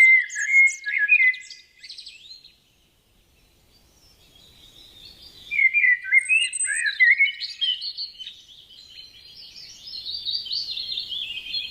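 Songbirds singing in quick, twittering, warbling phrases. They fall silent for about two seconds shortly after the start, then take up the song again and carry on.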